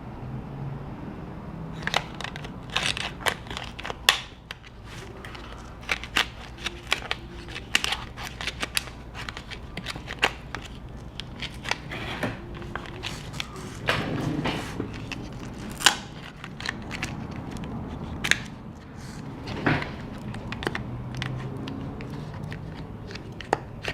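A plastic pry card being worked under a glued-in MacBook Pro battery cell, prying it loose from its adhesive: irregular sharp cracks and clicks.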